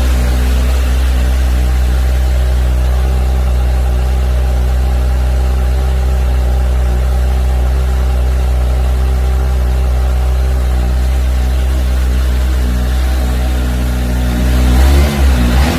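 Kawasaki H2 SX SE motorcycle's supercharged inline-four idling steadily through its stock exhaust, then revved in short throttle blips near the end.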